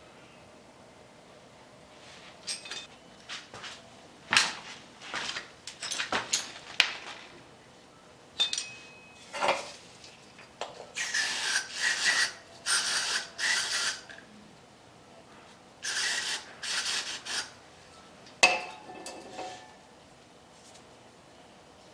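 Small metal parts of a motorcycle brake caliper clinking and knocking as they are handled on the bench, with several runs of scraping in the second half.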